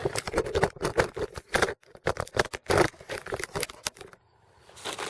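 Quick, irregular clicks and taps of small camp cooking gear being handled, stopping about four seconds in.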